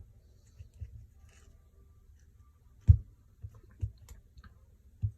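Scattered clicks and knocks of small parts and tools being handled while an RC truck's differential is taken apart, the sharpest knock about three seconds in.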